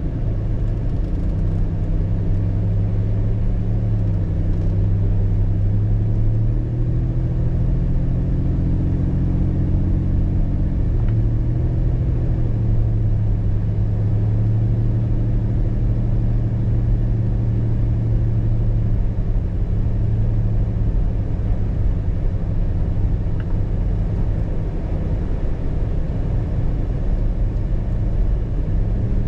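Car being driven: a steady low engine drone over road rumble, its pitch shifting slightly a few times as the speed changes.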